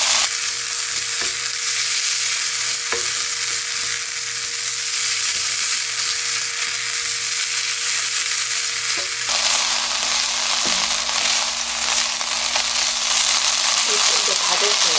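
Soaked bracken fern stalks sizzling in oil in a nonstick wok while being stirred and tossed with chopsticks and a spatula over medium heat, a steady frying hiss with a few faint clicks of the utensils.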